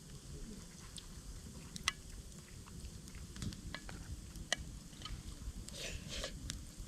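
Campfire crackling, with scattered sharp pops about a second apart over a low rumble.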